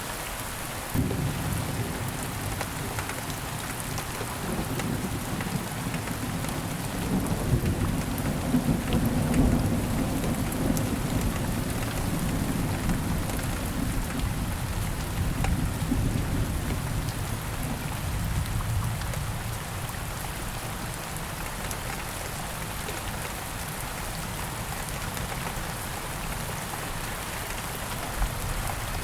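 Steady rain falling on leaves and ground in a wood, with a long roll of thunder that starts suddenly about a second in, swells, and dies away over the next twenty seconds or so.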